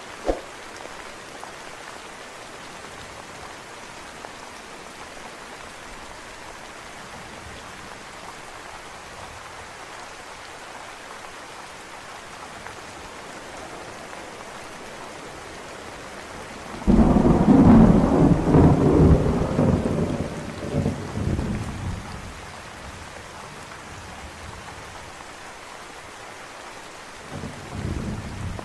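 Steady rain falling, with a sudden loud clap of thunder about two thirds of the way through that rumbles for several seconds and dies away. A fainter rumble of thunder comes near the end.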